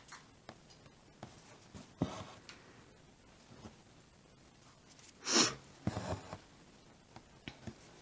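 Quiet handwork at the stitching hoop: soft ticks and taps, with a short, hissy burst about five seconds in that is the loudest sound here.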